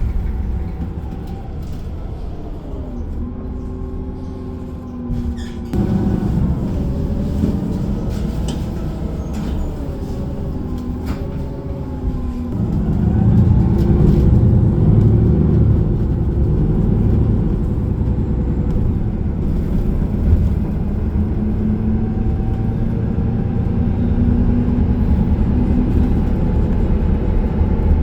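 A city bus heard from inside, its engine and drivetrain running with a low rumble. In the first half, whining tones glide down and back up as the bus slows and pulls away. The rumble steps up and grows louder about halfway through.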